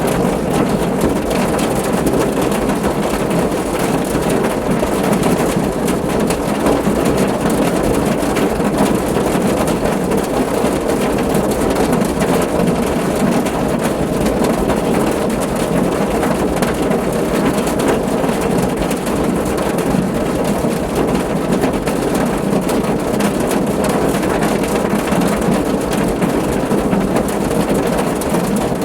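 Steady, heavy rain falling on a car roof: a dense, even patter with no let-up.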